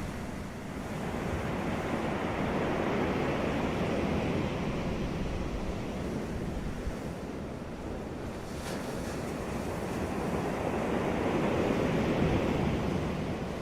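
Ocean surf breaking on a beach, the wash swelling and ebbing in two slow waves, with a light wind over the microphone.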